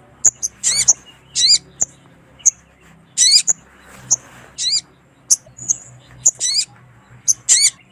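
Sogon (sogok ontong) bird calling: sharp, high-pitched chips interspersed with about six short, wavering trills that zigzag downward in pitch. The calls are those of a female sogon, used as a lure call to draw males.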